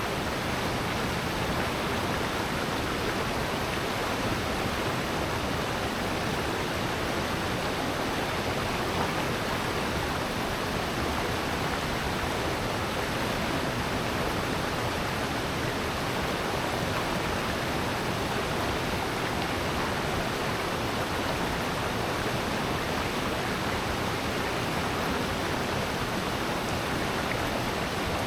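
Water of a mountain gorge stream and waterfall rushing in a steady, unbroken wash.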